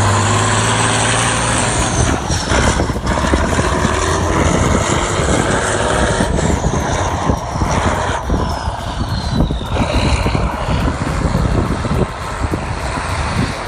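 Tatra 8x8 heavy truck running hard, a dense engine rumble with a strong low drone at the start. Two faint high whistles glide down in pitch, once early and again in the middle.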